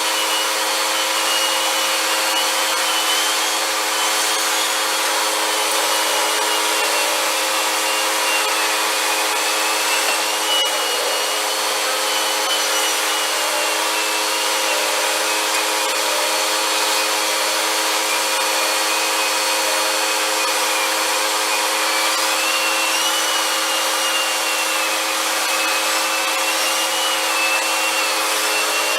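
Vacuum cleaner running steadily, its motor humming with a rushing airflow and a high whine that wavers in pitch.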